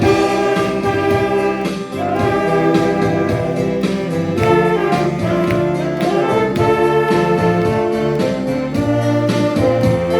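Saxophone ensemble playing a sustained melody in harmony over a full instrumental accompaniment.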